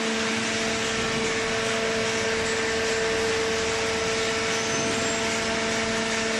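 Hydraulic waste paper baler running: a steady machine hum with two constant tones over a rushing noise, unchanging throughout.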